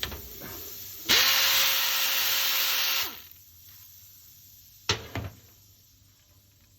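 A power tool spins up, runs loud and steady for about two seconds, then winds down. Two sharp clicks follow a couple of seconds later.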